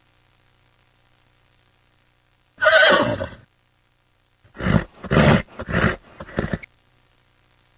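Horse neighing: one call of about a second about three seconds in, then a quick run of about five shorter pulses that fade away.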